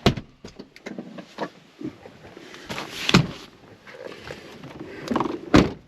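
Clicks and knocks of things being handled in a vehicle's rear cargo area, with two louder thumps, one about three seconds in and one near the end.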